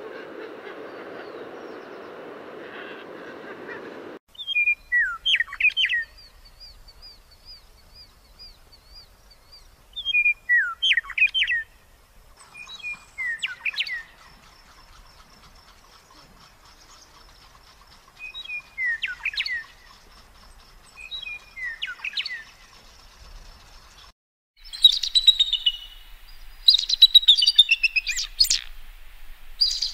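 Birds calling: after a steady hiss in the first few seconds, brief chirping phrases that sweep downward come about five times, a few seconds apart, and in the last few seconds a louder, busier run of calls follows.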